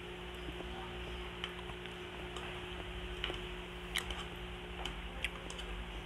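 Close-miked chewing with sticky, wet mouth clicks and smacks from eating rice and sautéed ampalaya by hand, about one sharp click a second, the loudest about four seconds in. A steady low hum runs underneath.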